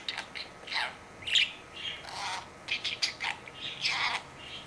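Pet budgerigar chattering: a quick run of short, high chirps and squawks, the budgie's warbling 'talk'.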